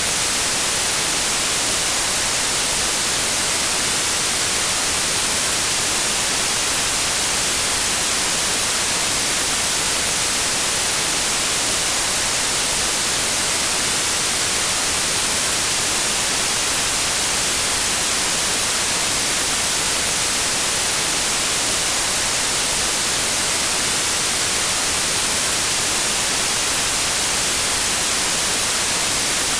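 Steady, unchanging white noise: an even hiss, brightest in the high range.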